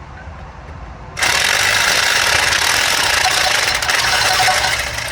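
Impact wrench hammering for about three and a half seconds, starting suddenly about a second in and dying away near the end, as a fastener is worked at the wheel hub during a CV axle replacement.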